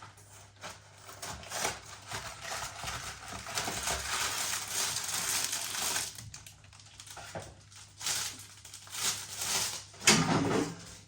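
Food packaging being handled: rustling and crinkling with small clicks, busiest in the middle and then more broken up.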